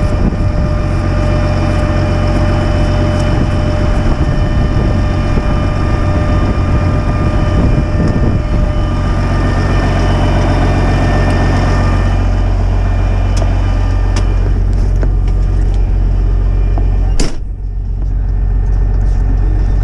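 Semi truck engine running steadily with the vac trailer's pump engaged, pulling production water into the tank, a steady whine of tones over the engine's low drone. A sharp click comes about 17 seconds in, and the sound briefly drops before picking back up.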